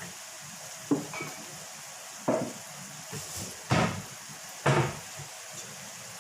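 Spatula stirring a pan of sweet and sour sauce with bell peppers, knocking against the pan four times over a steady sizzle.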